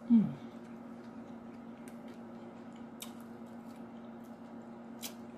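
Quiet eating sounds of soup with tortilla chips: a few faint sharp clicks and crunches of chewing over a steady low hum. Right at the start comes one brief, louder sound falling in pitch.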